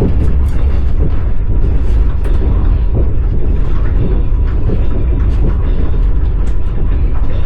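Passenger train wheels clattering over the rails, heard from inside the carriage: a steady low rumble with frequent clicks, knocks and creaks of the moving car.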